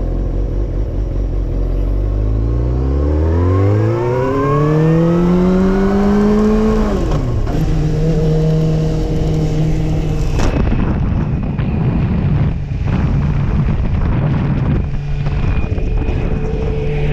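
Suzuki GSX-R750 motorcycle engine accelerating, its pitch climbing for about four seconds before dropping back, then running at a steady drone. About ten seconds in there is a sharp crack, after which the sound turns rougher with irregular knocks.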